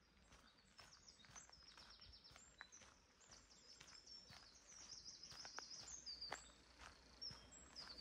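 Faint songbird chorus: several birds singing overlapping high trills and chirps, with a walker's soft footsteps on the path.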